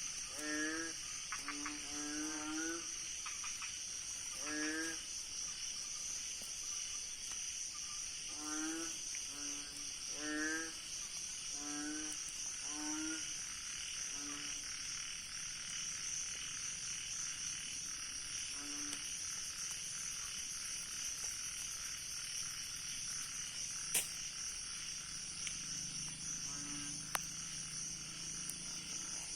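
Night chorus after rain: frogs giving short pitched croaks in irregular clusters that thin out about halfway through, over a steady high trilling of crickets and other insects. One sharp click near the end.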